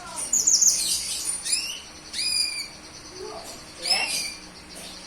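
Cucak kinoy bird singing: bursts of sharp, high chirps and whistled notes, several of them falling in pitch, about half a second in, around two seconds in, and again near four seconds.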